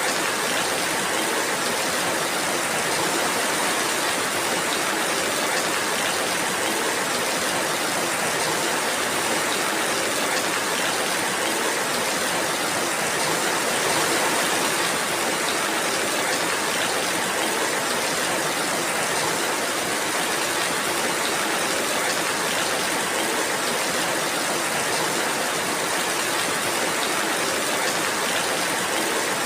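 Steady rainfall, an even hiss without distinct drops or changes.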